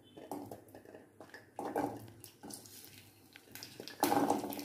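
Soft knocks and scrapes of a wooden spatula pushing shallots across a steel plate. About four seconds in, shallots drop into hot oil in a kadai and start to sizzle.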